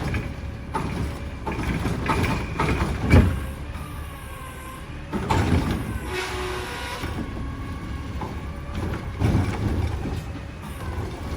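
Mack LR garbage truck with a Heil Durapack Rapid Rail body, its engine running under a series of clanks and bangs, the loudest about three seconds in, with wavering squeals in between.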